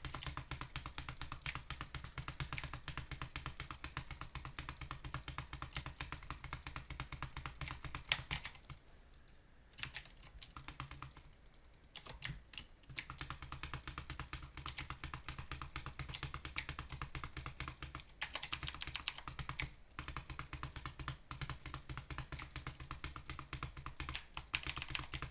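Typing on a computer keyboard: a fast, continuous run of key clicks, broken by short pauses about nine and twelve seconds in and once briefly near twenty seconds.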